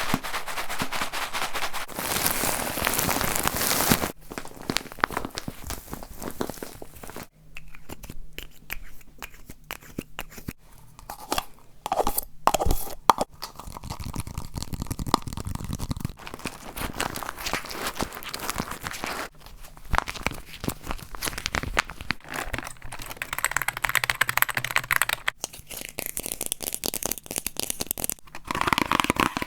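A rapid succession of close-miked ASMR trigger sounds that change every few seconds: crunching, crinkling and tearing of handled objects, with a stretch of sharp tapping clicks partway through.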